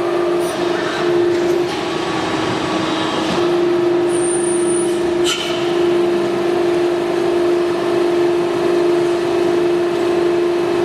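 Hydraulic CNC press brake running: a steady machine hum with one strong constant tone, and a sharp click about five seconds in.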